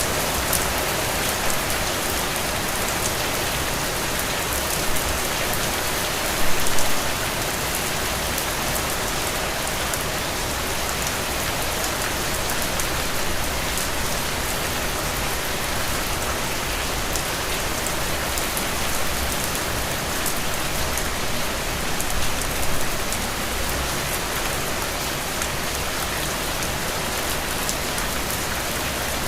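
Heavy rain falling steadily, with a dense patter of drops. It swells briefly louder twice, around seven seconds in and again a little past twenty seconds.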